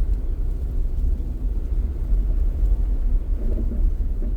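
Steady low rumble of a Jeep driving, road and engine noise heard from inside the cabin.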